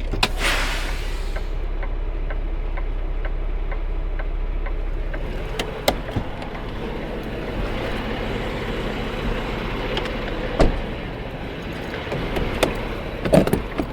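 Semi truck's diesel engine idling steadily, with a run of quick light ticks about four a second for the first few seconds. Later there are a few sharp metallic clicks and knocks.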